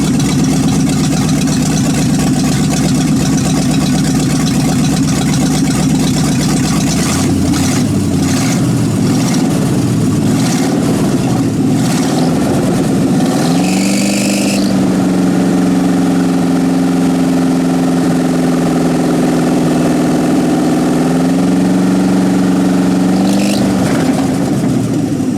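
Freshly rebuilt Ford 5.0-litre V8 running on its first start: it idles, is revved up and down a few times, then held at a raised steady speed for several seconds before dropping back and coming up again.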